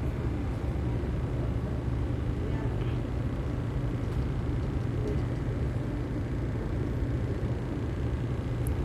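Steady low rumble of roadside background noise, with no distinct events standing out.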